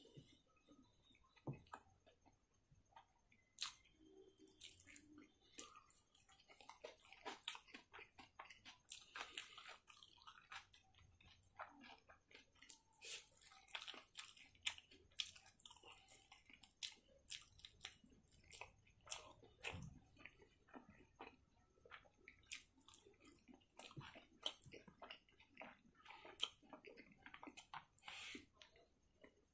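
Faint, close-miked chewing and mouth smacking of someone eating rice and fatty pork by hand: an irregular run of small wet clicks.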